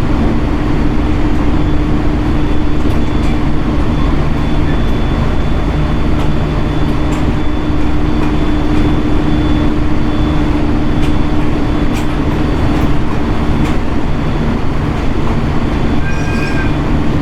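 Inside a JR East 701 series electric multiple unit running along the line: a steady rumble of wheels on rail with an even motor and gear hum and scattered clicks from rail joints. A short high-pitched squeal comes near the end.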